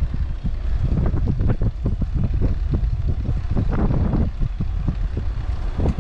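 Wind buffeting the microphone of a camera moving along the course, a heavy low rumble broken by frequent irregular knocks and rattles.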